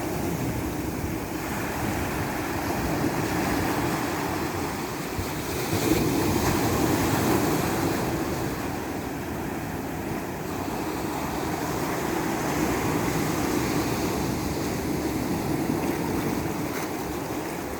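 Ocean surf: a continuous wash of waves breaking and rolling on shore, swelling to a louder surge about six seconds in before easing back.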